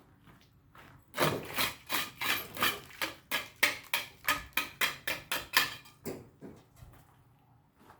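A hand tool scraping in quick, repeated strokes, about four a second, starting about a second in and stopping near the six-second mark.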